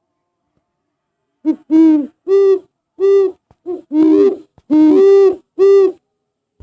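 Recorded owl hooting played as an animal ringtone from a phone app: about eight short hoots starting about a second and a half in, some coming in quick pairs.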